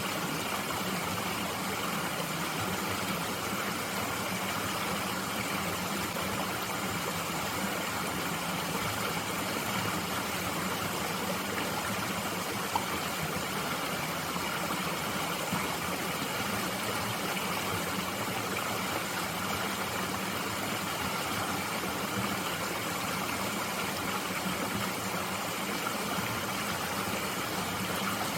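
A mountain stream flowing steadily, an even rushing and gurgling of water over rocks. There is one faint click about halfway through.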